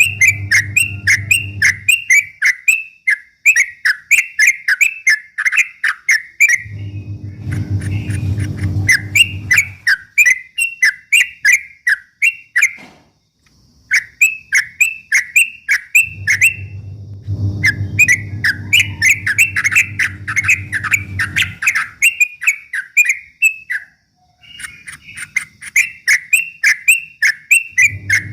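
Yellow-vented bulbul (trucuk) singing a fast, continuous 'ropel' run of repeated chirping notes, about three a second, breaking off briefly twice. A low hum comes and goes underneath.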